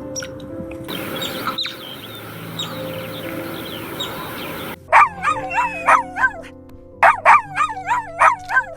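Chickens calling: two loud runs of quick, wavering clucks, one about halfway through and one near the end, after a stretch of hiss with faint chirps, over soft steady background music.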